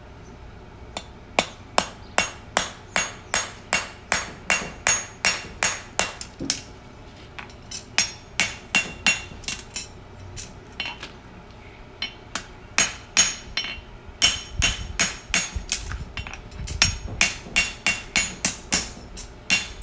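Farrier's hammer striking a steel horseshoe on the anvil, about two to three ringing blows a second with a short pause midway, drawing a bubble of metal at the shoe's edge for a toe clip.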